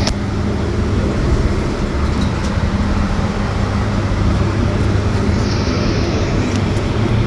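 Electric bus in motion, heard from inside the cabin: steady road and tyre noise with a low, even hum.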